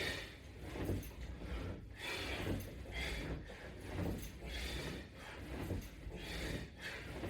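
A person doing crunch repetitions, with a short hissing breath or rub about every one and a half to two seconds, one for each rep.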